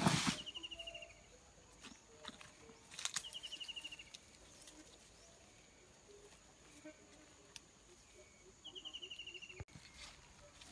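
Outdoor animal calls: a short, rapid, slightly falling trill, heard three times, over a faint steady high-pitched whine. A sharp knock comes at the start and another about three seconds in.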